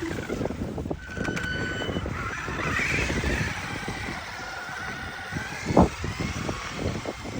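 Traxxas RC car's electric motor whining, rising in pitch about two seconds in and falling away again, over a rough crackling noise. A single loud thump comes near the end.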